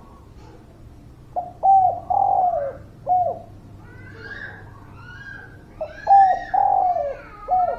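Spotted dove cooing: two calling phrases, each a quick pair of short coos followed by longer, drawn-out coos, with a short final coo. Fainter, higher chirps of another small bird sound between and over the second phrase.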